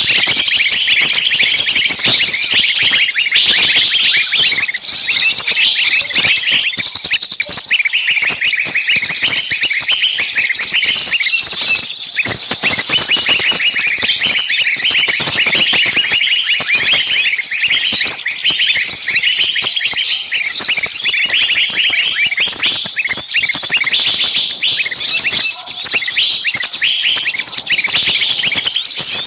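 Dense, unbroken chatter of many small songbirds calling at once: rapid, high-pitched chirps and trills overlapping with no pause. It is a bird-lure recording of small birds in an agitated, screaming state, meant to sound like a bird caught and in distress.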